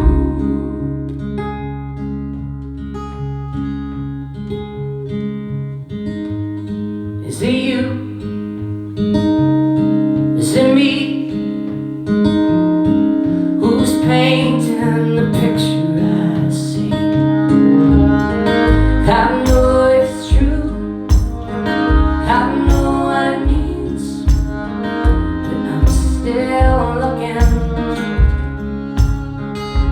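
Live instrumental music: sustained chords over a moving bass line, with a steady rhythmic pulse coming in about two-thirds of the way through.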